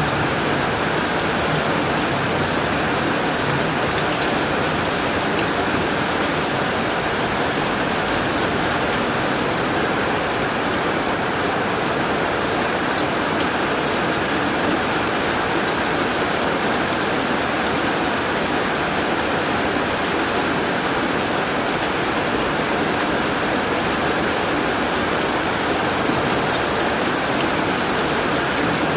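Steady heavy rain drumming on a tin roof, with a dense patter of individual drops.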